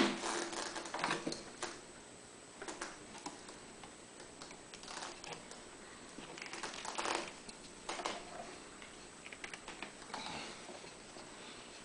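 Irregular scraping, rubbing and small clicks of a rubber breather hose being forced by hand onto the valve cover fitting of a generator, a tight fit. A sharper knock right at the start is the loudest sound.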